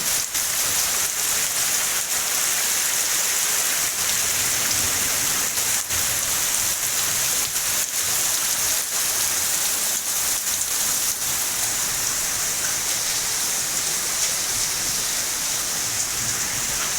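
Heavy rain and hail falling: a steady, loud hiss of rain, with scattered sharp clicks of hailstones striking.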